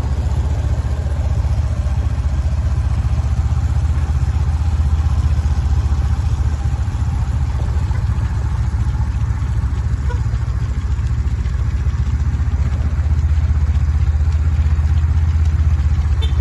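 A motor vehicle's engine running steadily at low revs, a continuous low drone.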